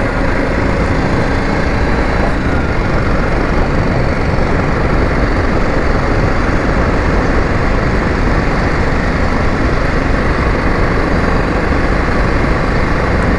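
Motorcycle on the move: a steady rush of wind on the microphone over the running engine.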